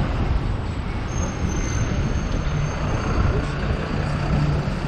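Hong Kong double-decker tram running along the street, with a steady rumble of wheels and motor mixed with surrounding road traffic. A thin high whine sounds from about a second in until a second before the end.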